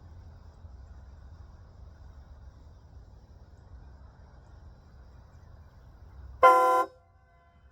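Aftermarket train horn on a Ford F-150 pickup gives one short, very loud blast of several tones together near the end, over a low steady rumble.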